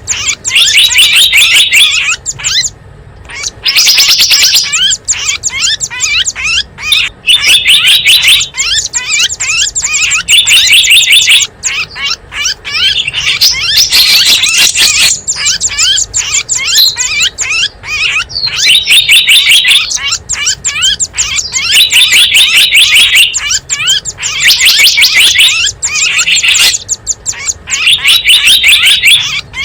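Bird-lure recording of small wild birds calling: a dense, continuous run of rapid high-pitched chirps, broken every couple of seconds by loud stretches of fast buzzy trilling.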